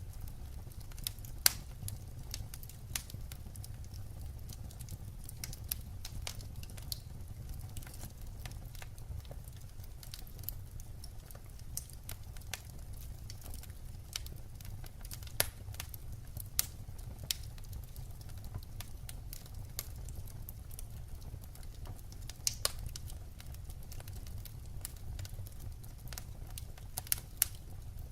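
Firewood burning: irregular sharp crackles and pops, a few much louder than the rest, over a steady low rumble.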